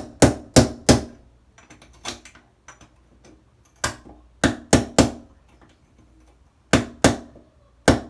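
Hammer striking a metal tool against shower-wall grout, sharp ringing blows in quick groups of two or three, chipping the grout loose from the shower valve pipe.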